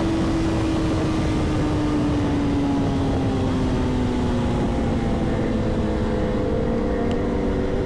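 Superbike engine running at speed, its pitch slowly falling as it eases off, under a heavy rush of wind.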